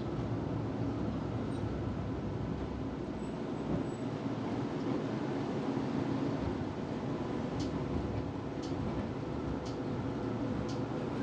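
Electric tram running on its rails, heard from inside the passenger cabin: a steady rolling rumble. About seven and a half seconds in, a light tick starts repeating about once a second.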